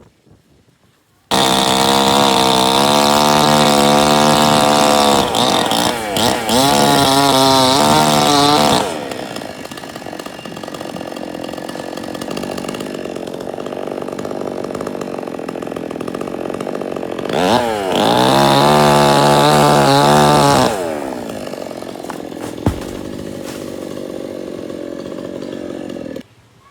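Two-stroke chainsaw at high revs, dropping back to a lower idle, revved up again, then idling until it cuts off shortly before the end.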